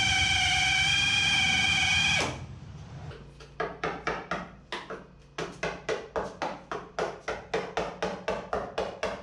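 A power drill whining at a steady high speed, stopping abruptly about two seconds in. After a short pause, a steady rhythmic run of sharp taps follows, about three a second.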